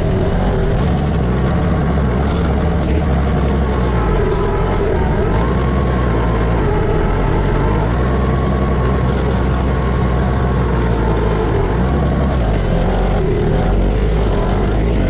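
Tractor engine running steadily under load, heard close from the operator's seat while clearing snow.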